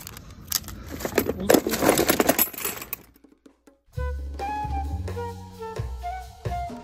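A burst of irregular clattering and knocks for about three seconds, then a brief gap, then background music with a bass line starts about four seconds in.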